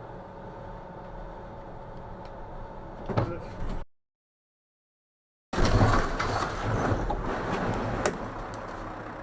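Vehicle and road noise with a faint steady hum and a sudden thump or knock about three seconds in, then it cuts off to dead silence for about a second and a half. Louder road and traffic noise follows, with a sharp click near the end.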